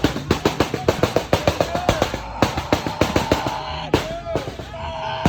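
Subaru exhaust popping and crackling in a rapid, uneven string of sharp pops, about eight a second, that thin out to a few scattered pops after about three and a half seconds.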